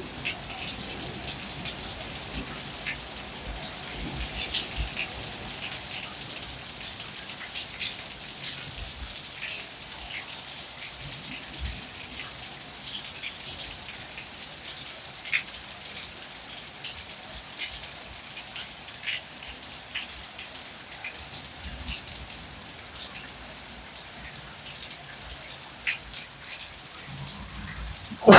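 Steady rain falling from a thunderstorm, with individual drops ticking sharply on a surface throughout.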